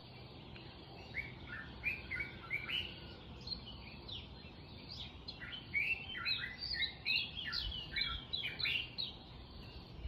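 Small birds chirping: many short, quick downward-sliding chirps over a faint steady hiss, busiest in the second half.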